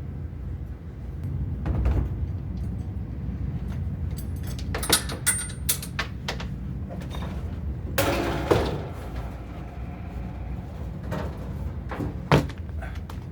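Scattered knocks and clicks of tools and pipe being handled during drain-pipe work, with a short scrape about eight seconds in, over a steady low rumble.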